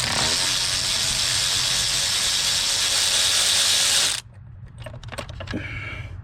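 A ratchet wrench spinning out an 8mm intake-manifold bolt in one fast, continuous run that stops abruptly about four seconds in. A few scattered clicks of the tool and bolt follow.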